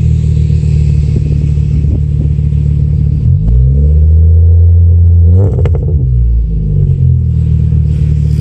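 VW Jetta 2.5-litre inline five-cylinder running after a cold start, through an aftermarket stainless exhaust with a Magnaflow muffler. Its engine speed changes about three seconds in, then a short rev blip comes near six seconds before it settles back.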